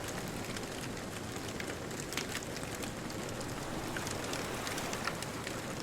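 Wood bonfire crackling, with scattered sharp pops and snaps, over a steady rushing wash of distant ocean surf.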